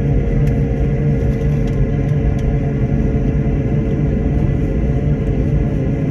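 Airliner cabin noise: a steady, loud rumble of the jet engines and cabin air with a constant hum, and a few faint ticks.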